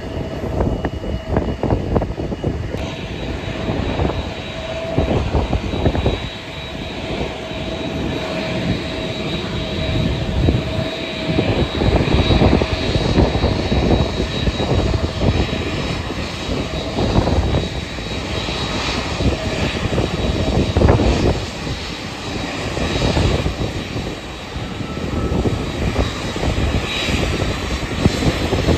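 Airliner engines running, with a steady high whine, under heavy wind buffeting on the microphone.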